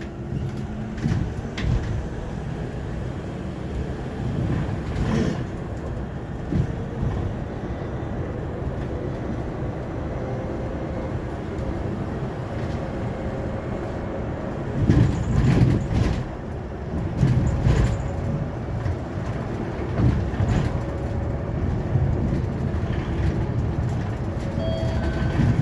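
Hyundai Elec City 2 electric city bus driving, heard from inside the cabin: steady road and tyre rumble with a faint motor whine that rises and falls. Scattered clunks and rattles come through the cabin, the loudest cluster about fifteen seconds in.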